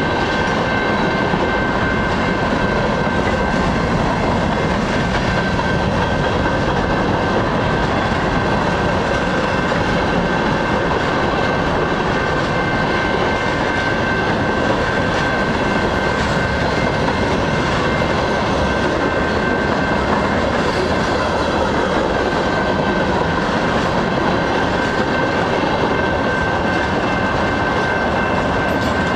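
Freight train cars rolling past, a steady loud rumble of steel wheels on rail with a constant high whine running through it.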